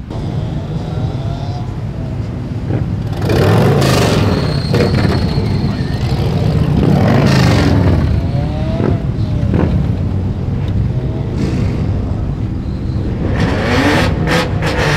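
Car engines revving and accelerating, in several loud surges a few seconds apart, with the engine pitch rising and falling.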